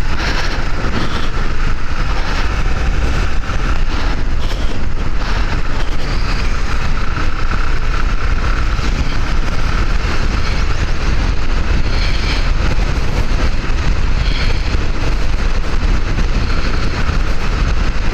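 Steady wind rush and road noise on the camera's microphone from a motorcycle riding along at speed, with a deep buffeting rumble at the bottom.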